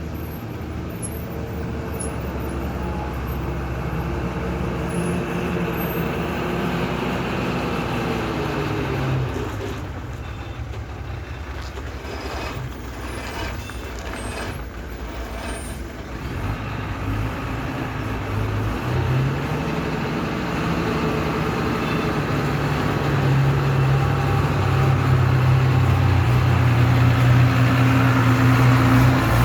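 Heavy truck engine running. Its pitch drops about eight seconds in, stays lower and quieter for a while, then climbs again from about sixteen seconds in and gets louder and steadier towards the end.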